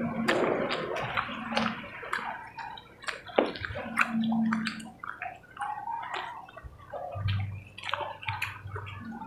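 Close-up wet chewing and lip-smacking of people eating chicken and rice with their hands, with many short moist clicks.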